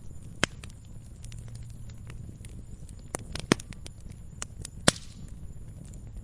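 Wood fire burning in a fireplace: a low steady rumble of flames with frequent crackles and a few sharper pops, the loudest about half a second, three and a half and five seconds in.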